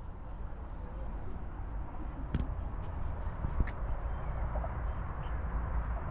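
Outdoor ambience in a public park: a steady low rumble with faint, indistinct voices, and a few sharp clicks a little before the middle.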